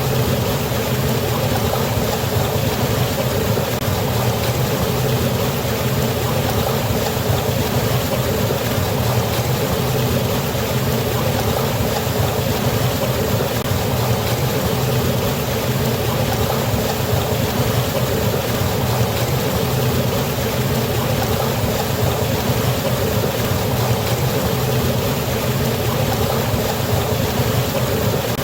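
A waterfall on a river: water falling and rushing steadily, an even, unbroken rush with a deep low rumble under it.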